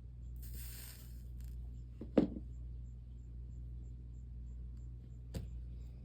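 Stained-glass soldering work at the bench: a short hiss about half a second in, a sharp knock about two seconds in, and a lighter click near the end, over a steady low hum.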